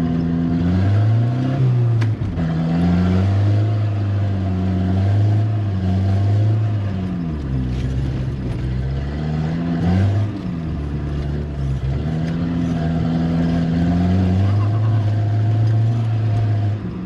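Volvo 740 Turbo's turbocharged four-cylinder engine driven hard on a rally stage, revs rising and falling with the throttle. There is a brief lift about two seconds in, and the revs sag lower for a couple of seconds in the middle before picking up again.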